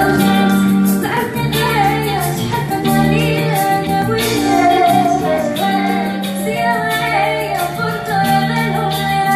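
Music: a high voice sings a melody with held, wavering notes over instrumental accompaniment with a steady bass line.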